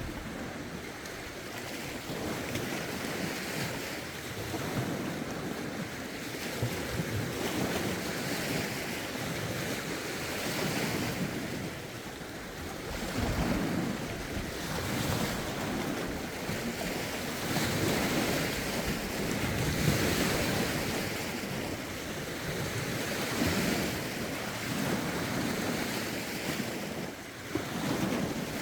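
Lake waves washing in against the shore, swelling and easing every few seconds, with gusty wind and wind buffeting on the microphone.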